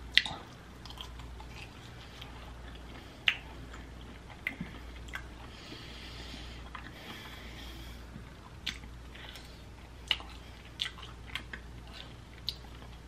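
Mouth biting and chewing meat off honey barbecue ribs, with about ten sharp smacking clicks scattered through the chewing.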